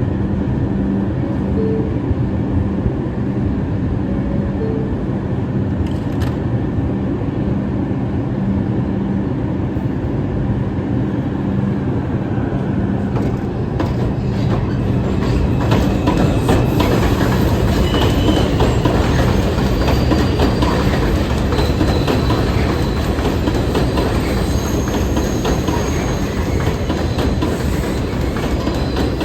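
R142 subway train running on the rails, its wheels clattering over the rail joints with a steady rumble that grows louder about halfway through. High wheel squeal comes in during the second half.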